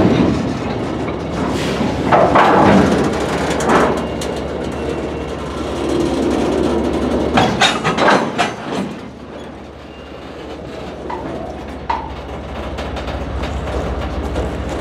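Freight train of enclosed autorack cars rolling past close by: a steady low rumble of steel wheels on rail, broken by bursts of knocks and clanks, loudest about two seconds in and again around eight seconds in.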